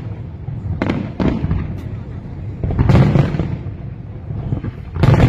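Aerial fireworks shells bursting: sudden booms about a second in, around three seconds in and near the end, each trailing off in a rumbling echo, with a continuous low rumble of further bursts between.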